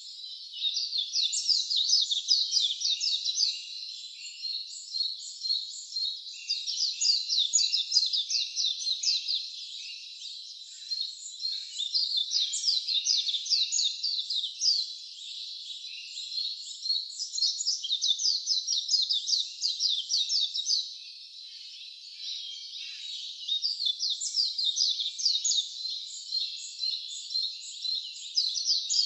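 Songbird singing rapid, high-pitched trilled phrases, each a few seconds long, repeated after short pauses about five times.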